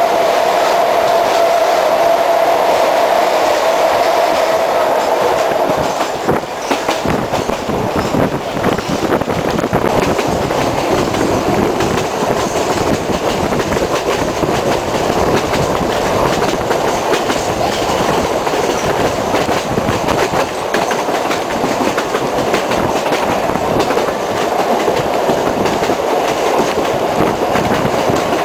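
Sóller railway train running, heard from inside a wooden carriage: a steady rumble with wheels clicking over the rail joints. A steady high whine in the first few seconds stops about six seconds in, where the train comes out of a tunnel into daylight.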